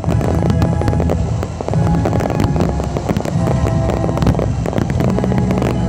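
Dense barrage of aerial firework shells bursting and crackling in quick succession, with the display's music playing underneath.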